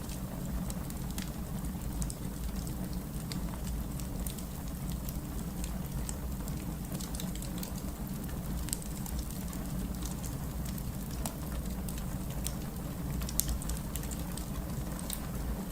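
Wood fire crackling in a fireplace: a steady low rumble of burning with frequent small sharp pops and crackles, one louder pop about thirteen seconds in.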